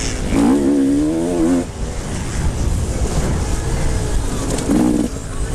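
Motocross motorcycle engines running at high revs on the track, their pitch wavering as riders work the throttle. Two louder passes come, one about half a second in and one near the end.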